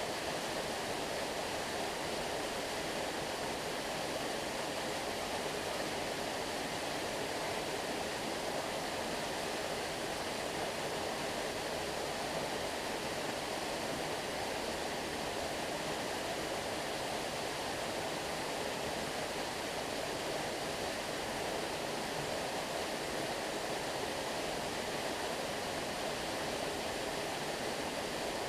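Stream water flowing steadily: an even rush with no separate splashes or other events.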